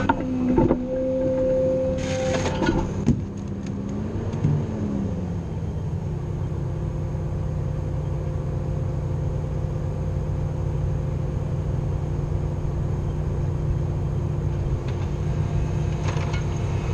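Grapple loader's engine running steadily under work, with a hydraulic whine and a few clunks in the first three seconds, and a brief rise and fall in pitch about four seconds in.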